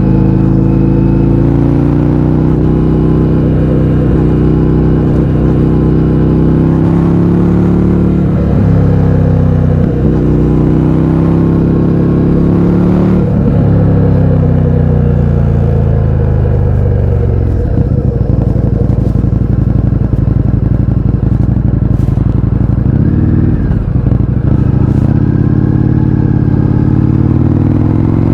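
Indian FTR 1200's V-twin through an Akrapovič exhaust with the baffles removed, pulling hard with the pitch climbing and dropping back at each upshift. It then rolls off into a long fall in revs and runs low and rough for a few seconds before pulling up again near the end.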